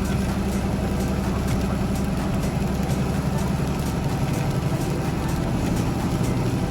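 Semi-truck's diesel engine and road noise heard from inside the cab while driving, a steady low drone.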